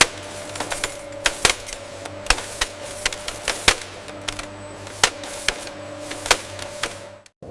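Factory machinery clattering: irregular sharp clacks, a dozen or more in a few seconds, over a steady machine hum with a faint held tone, cutting off suddenly near the end.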